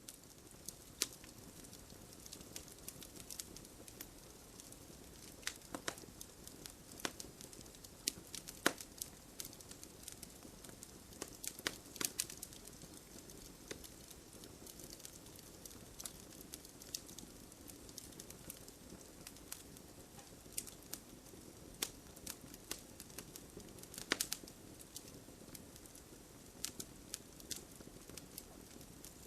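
Wood fire crackling in a fireplace: irregular sharp pops and snaps over a soft steady hiss, with a few louder pops about a third of the way in and again near the end.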